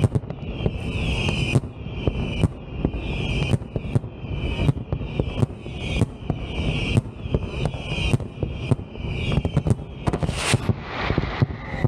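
Fireworks display with pyrotechnic shells firing in rapid succession. Short shrill whistles come about once a second among sharp bangs and crackle over a constant low rumble. A bigger burst comes near the end.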